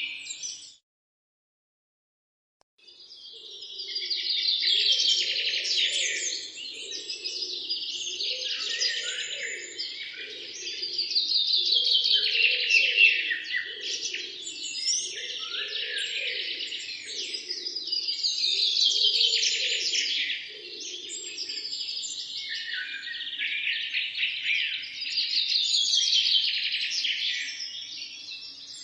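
A dense chorus of many songbirds chirping and trilling at once. It breaks off into dead silence about a second in, then fades back up and runs on unbroken.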